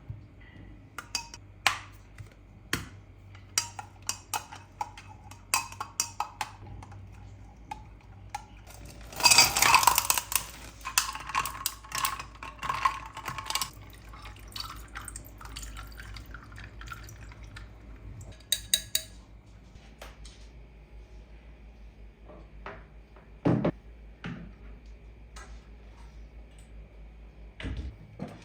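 Kitchen clatter of glassware, dishes and utensils: scattered clinks and taps, then a brief loud rush of liquid being poured into a glass about nine seconds in, and a couple of dull thumps of things set down near the end.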